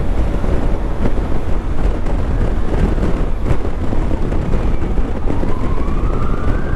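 Heavy wind buffeting on the microphone of a moving motorcycle, a steady loud rumble. Near the end a single whining tone rises slowly in pitch.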